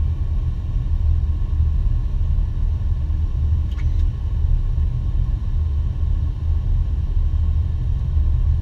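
Steady low rumble on the flight deck of an Airbus A330-300 on the ground after landing, with two faint clicks near the middle.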